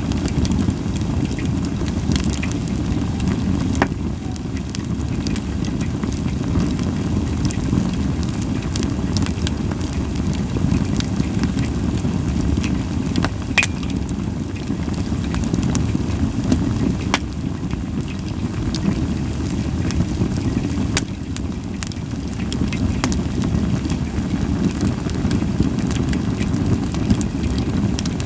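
Japanese white pine firewood burning, with a steady low rumble and scattered sharp crackles and pops every few seconds.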